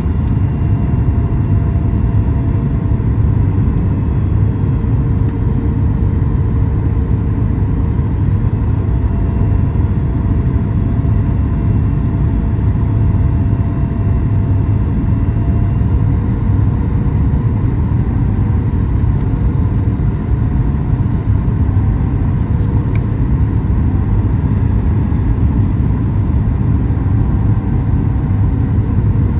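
Steady rumble of a Boeing 737 MAX 8's cabin noise, heard from a window seat near the front: the engines and airflow running evenly, with faint steady tones over a deep drone.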